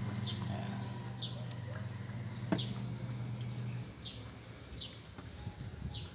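A small bird chirping over and over, one short high falling chirp about once a second, over a low steady hum that stops about four seconds in; a single sharp click a little before the middle.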